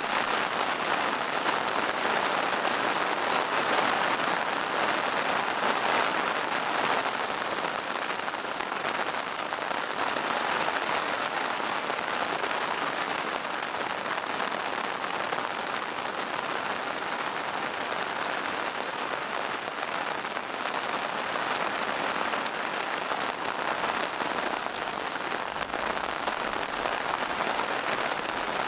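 Steady rain falling in a forest, with a dense hiss of drops on leaves and rocks and fine individual drop ticks throughout.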